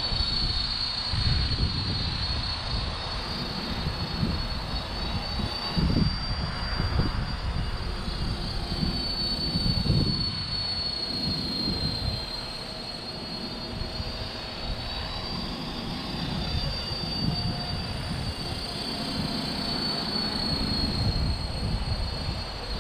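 450-size radio-controlled helicopter hovering: a steady high motor and rotor whine that drifts slightly up and down in pitch as it fights the wind. Gusts of wind rumble on the microphone underneath.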